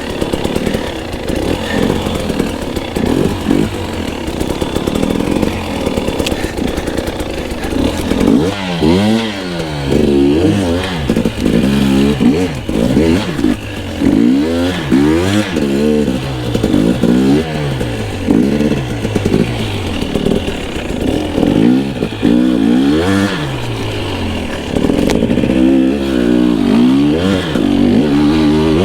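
Two-stroke dirt bike engine being ridden, its pitch rising and falling over and over as the throttle is worked, about once a second from roughly eight seconds in; steadier running before that.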